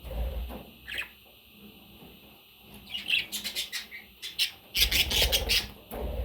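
Pet budgie chirping, a quick run of short high chirps in the second half, with low thuds at the start and again partway through.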